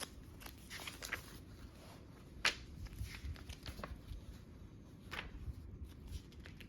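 Paper pages of a journal being turned and handled: soft rustles, with a sharper page flick about two and a half seconds in and another about five seconds in.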